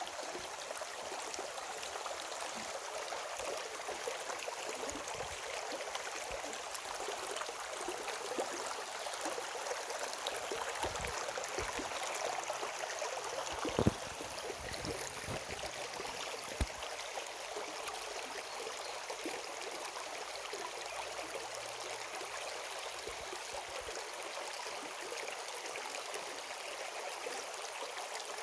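Stream water running steadily, an even rushing hiss, with a sharp knock about halfway through and a smaller one a few seconds later.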